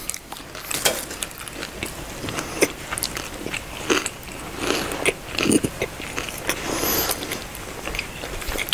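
People chewing mouthfuls of coated mozzarella corn dog, an irregular stream of short wet mouth clicks.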